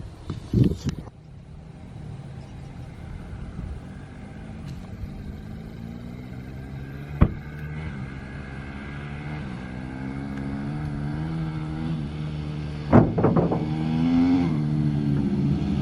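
Dirt bike engine revving up and down again and again, growing louder as it comes closer. There is a sharp knock about seven seconds in and a short burst of loud knocks near the end.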